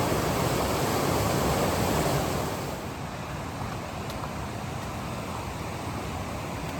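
A steady rushing noise with no distinct events, dropping noticeably in level about two and a half seconds in.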